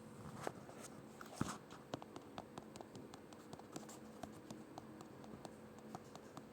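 Thick chicken gravy simmering in a pan, its bubbles popping in small, irregular clicks a few times a second, with two louder pops in the first second and a half, over a faint steady hum.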